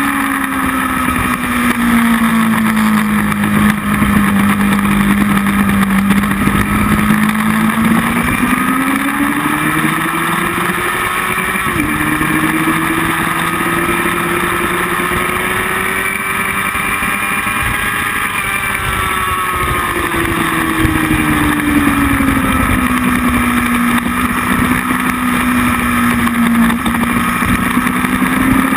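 Motorcycle engine heard from onboard at track speed, its note climbing and falling slowly as the rider accelerates and slows, with a sudden jump in pitch about twelve seconds in, under constant wind rush.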